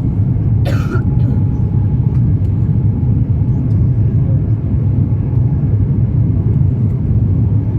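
Steady, loud low rumble of an airliner cabin, the noise of a jet in motion heard from a passenger seat, with a brief rustle about a second in.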